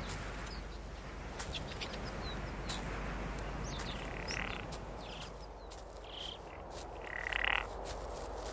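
Outdoor mountain ambience: a steady hiss with scattered short bird chirps and a few clicks, and two short buzzy animal calls, one about four seconds in and a louder one near the end.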